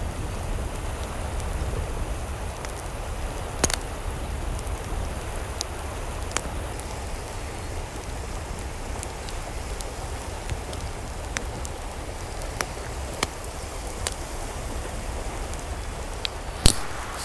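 Steady rain, with scattered sharp ticks of single drops hitting a surface, the loudest near the end.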